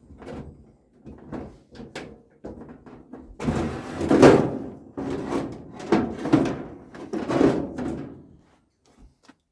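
Knocks, scrapes and rattles from a stripped microwave oven's metal casing and parts being moved about and handled.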